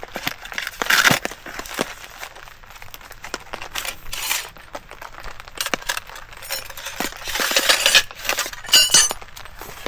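Metal parts of a collapsible camp table clinking and clattering as they are unpacked and handled, with a bright ringing clink near the end.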